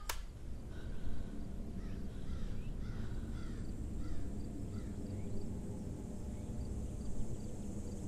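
Countryside ambience: a bird calling over and over in short falling notes over a steady low rumble, with a faint insect hiss building later. It opens with a click as the preceding music cuts off.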